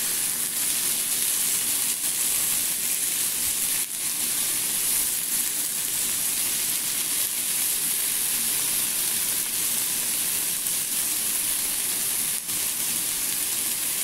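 Chicken breast fillets frying in a nonstick pan: a steady, even sizzle.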